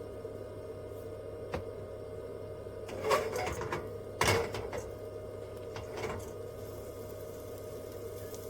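A few clicks and clattering knocks of objects being handled, the loudest pair about three and four seconds in, over a steady low hum.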